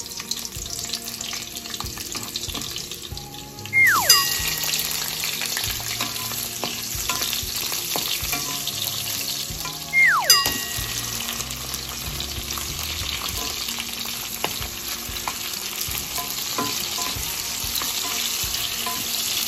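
Hot oil sizzling in a nonstick wok as garlic, then sliced onion, then tomato are sautéed and stirred with a wooden spatula. The sizzle gets louder about four seconds in. A loud falling whistle-like tone sweeps down twice, about four and ten seconds in.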